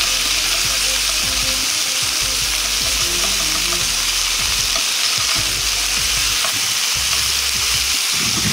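Pork slices and bean sprouts sizzling steadily in a hot nonstick frying pan, in oil rendered from the pork, while they are tossed and stirred with chopsticks.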